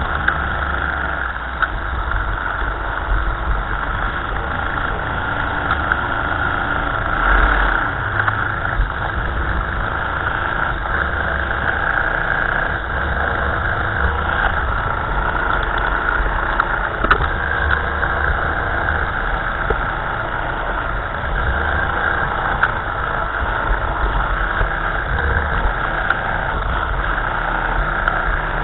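1955 Ferguson tractor engine running steadily, heard close up with a throbbing low end and a brief swell about seven seconds in.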